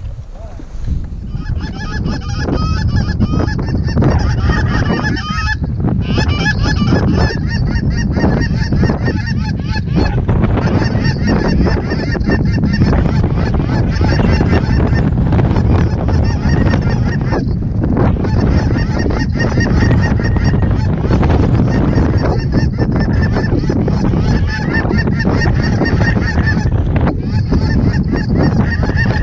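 Many geese honking and calling together in a continuous, dense chorus, over heavy wind noise on the microphone.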